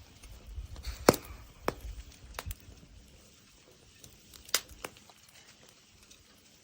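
A few scattered sharp pops and cracks from a wood fire grilling scallops in their shells. The loudest comes about a second in, and another sharp one comes a little past the middle.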